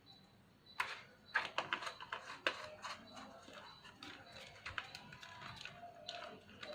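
Irregular small clicks and taps of laptop parts being handled and fitted during reassembly, starting about a second in.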